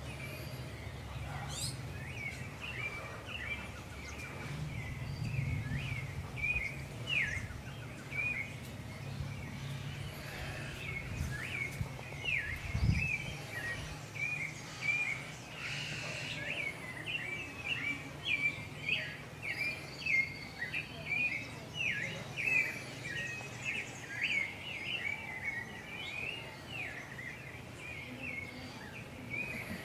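Birds chirping continuously in quick, short, repeated calls. A low hum runs underneath through the first half, and there is a single thump about halfway through.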